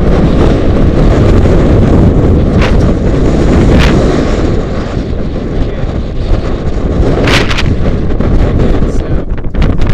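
Strong storm wind buffeting the microphone: a loud, continuous low rumble of gusts with a few sharp crackles.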